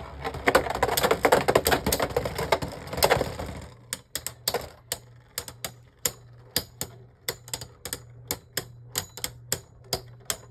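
Beyblade Burst spinning tops clashing in a plastic stadium: a dense run of rapid clicking for the first three and a half seconds or so, then separate sharp clicks a few times a second as the tops knock together.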